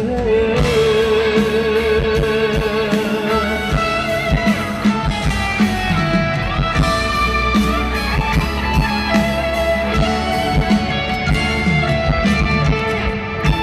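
Live pop-ballad band playing an instrumental interlude between vocal lines, with guitar to the fore over bass and drums; a wavering held note sounds in the first few seconds.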